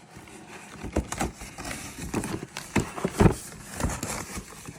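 A run of irregular knocks and clatter over rustling, with the loudest knock about three seconds in.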